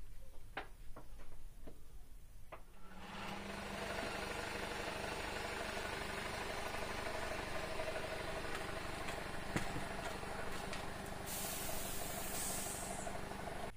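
Maruti Gypsy's four-cylinder petrol engine running steadily at idle, coming in suddenly about three seconds in after a few light clicks. A brief high hiss sounds near the end.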